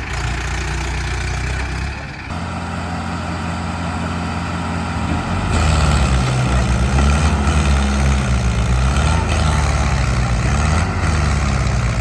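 Arjun diesel tractor engine running while hauling a fully loaded wooden trolley, getting louder about halfway through, with its pitch wavering up and down.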